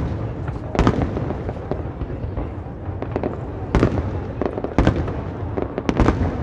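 Aerial firework shells bursting overhead: about half a dozen sharp booms spaced irregularly, with crackling between them over a steady low rumble.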